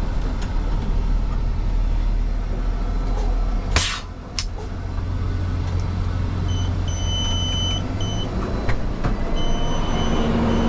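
Heavy tow truck's diesel engine running, heard from inside the cab as it slows to pull over. A short hiss comes about four seconds in, and a high electronic beep sounds on and off in the second half.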